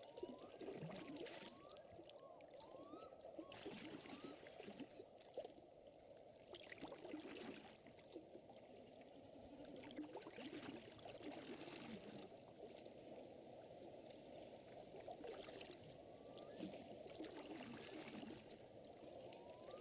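Faint lake water lapping and trickling steadily, with a soft hiss that swells and fades every few seconds. A few short rising chirps come near the start and again near the end.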